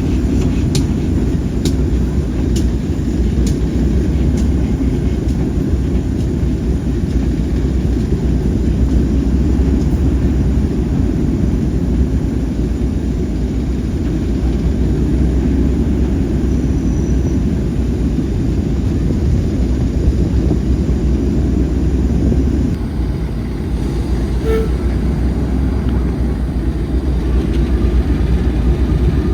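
Train running with a steady low rumble, with a few sharp clicks in the first few seconds.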